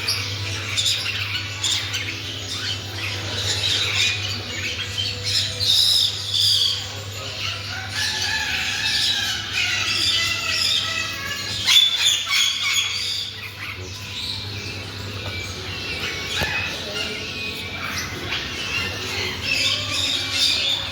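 Many caged birds squawking and chirping over one another, with one sharp loud call about twelve seconds in. A steady low hum runs underneath.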